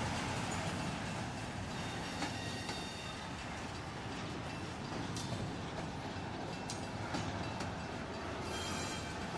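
Double-stack intermodal freight cars rolling steadily past, a continuous rumble of steel wheels on rail. Short, high wheel squeals come about two seconds in and again near the end.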